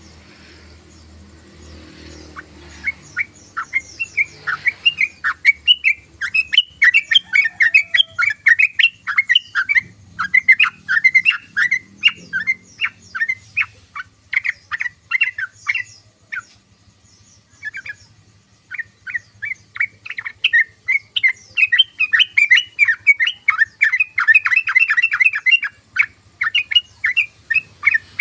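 Yellow-vented bulbul (trucukan) chattering: fast runs of short chirps that begin a few seconds in, stop for a few seconds about halfway through, then start again.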